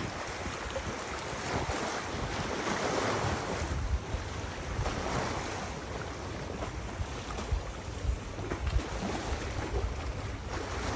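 Wind gusting across the microphone, with low rumbling buffets that swell and ease, over a steady wash of river water.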